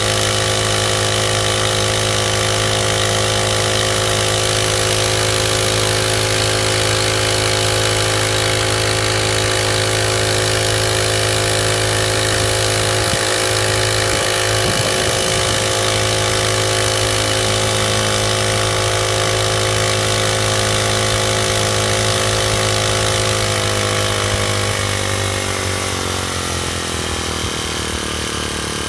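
Honda GX35 single-cylinder four-stroke engine on an outboard leg running steadily at a constant speed, then slowing near the end, its pitch falling and the sound getting a little quieter.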